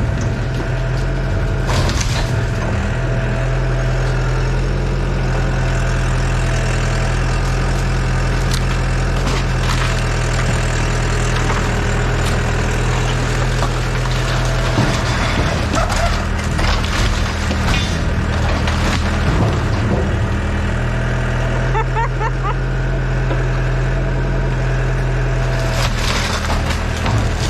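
Yanmar Vio80 excavator's diesel engine running steadily while wood cracks and splinters at intervals as the machine tears down a wooden garage.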